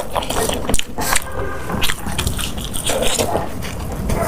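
Close-miked eating: wet chewing with frequent short clicks and smacks.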